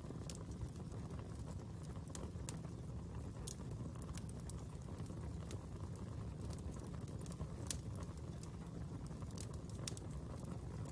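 Fire crackling: irregular sharp pops and snaps over a low steady rumble, with one louder pop a little past the middle.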